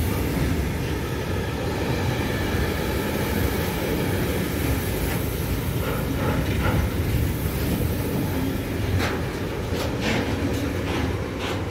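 Container freight wagons rolling past close by: a steady rumble of wheels on the rails, with a few sharp clicks in the last few seconds.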